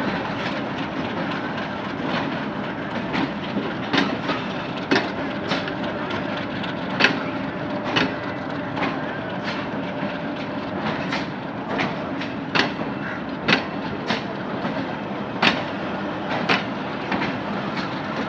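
Pakistan Railways passenger coaches rolling past, their wheels clacking over the rail joints in sharp, irregular clicks about once a second over a steady rumble.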